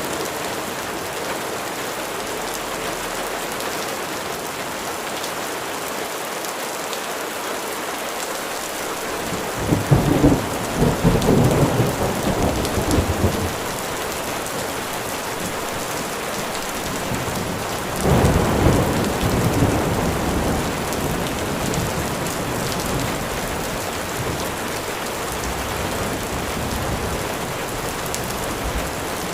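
Steady heavy rain falling, with two rolls of thunder, the first about ten seconds in lasting some four seconds, the second about eighteen seconds in, fading off slowly.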